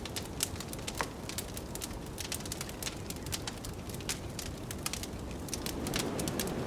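Wood fire crackling, with frequent sharp pops and snaps, over a steady rush of blizzard wind that swells a little near the end.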